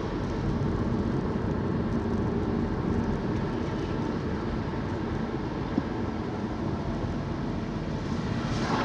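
Steady road and engine noise heard from inside a moving car's cabin, with one short click about six seconds in.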